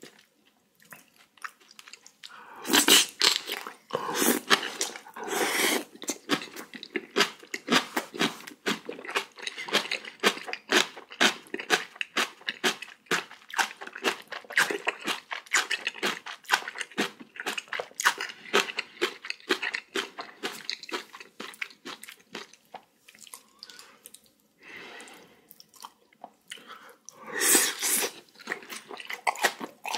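A person chewing and crunching food close to the microphone: a dense, continuous run of wet, crunchy chews, with louder bites about three seconds in, around five seconds in and near the end.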